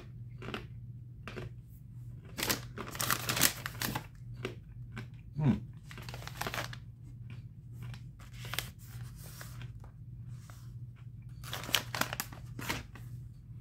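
Crunching of a person biting and chewing crisp, brittle pita snack crackers, in irregular crackly bursts, with a short low hummed 'mm' about five and a half seconds in.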